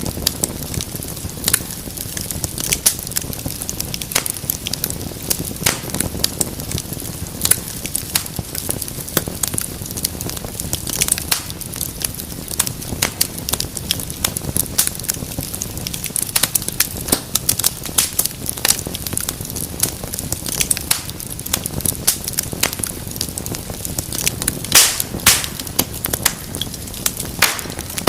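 Wood fire crackling and popping, with many sharp irregular pops over a soft steady low rumble of the flames.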